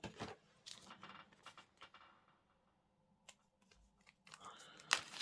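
Scattered light clicks and plastic rustling from handling small zip bags of diamond painting drills, with a quiet pause in the middle and a sharper click near the end.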